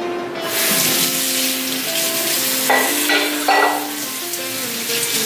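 Kitchen tap running into the sink, a steady hiss of water that splashes louder around the middle, over background music with a gentle melody.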